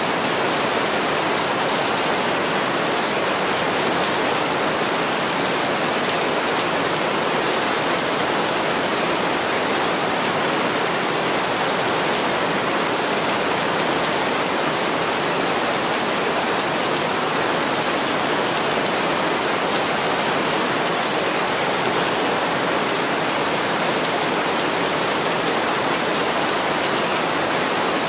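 Steady heavy rain falling on a window pane, an even, unbroken hiss with no separate drops or crackles standing out.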